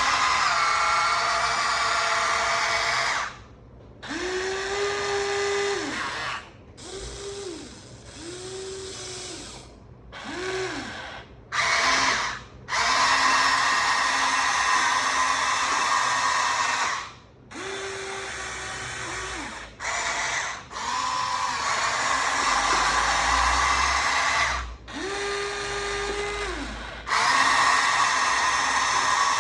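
Huina 1593 RC excavator's small electric gear motors whining in repeated runs of one to several seconds, starting and stopping as different functions are worked. Some runs carry a separate lower whine that ramps up, holds and winds down.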